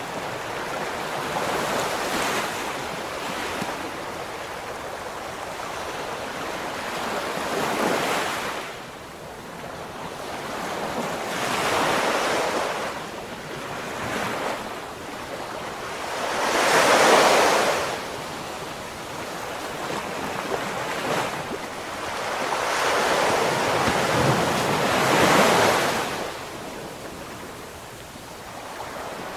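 Ocean waves breaking and washing up a shore, surging and falling back every few seconds, with the biggest wave a little past halfway.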